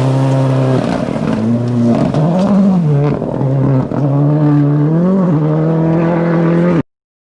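Rally car engine revving hard, its pitch climbing and dropping several times as it accelerates and changes gear, then cutting off abruptly near the end.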